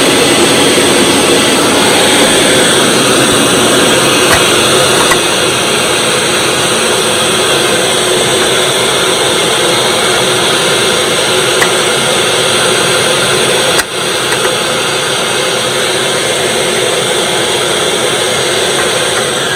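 Hoover WindTunnel Supreme upright vacuum cleaner running steadily at full power, a loud even rush of motor and airflow. About 14 seconds in, it drops out for an instant and comes back slightly quieter, as its faulty power switch acts up.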